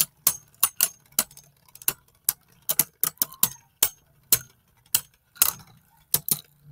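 Beyblade Burst tops spinning and clashing in a plastic stadium: a run of sharp, irregular clicks as they strike each other, about two to three a second, over a faint low hum.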